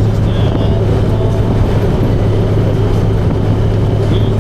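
Motorcycle running at a steady cruise: a constant low engine drone under a loud, even rush of wind and road noise.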